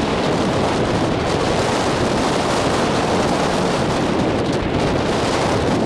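Strong wind buffeting the microphone, a loud steady rushing roar that masks other sounds, with surf possibly mixed underneath.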